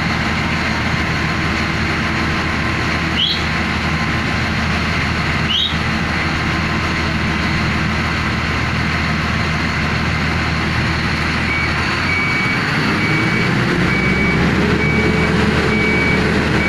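Heavy ship-launching machinery's diesel engine running steadily, with two short rising squeaks early on. A little past halfway a repeating warning beep starts and the engine revs up, its pitch rising over a few seconds and then holding.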